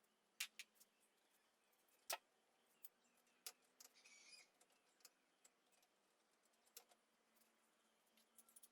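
Faint, scattered sharp clicks and light taps, a few seconds apart, with a brief chirp about four seconds in.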